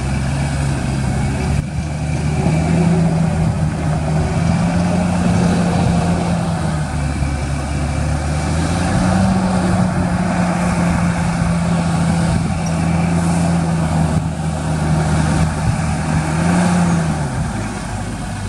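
Diesel engine of heavy earthmoving equipment running steadily under load, its pitch stepping up and down a little and falling away near the end.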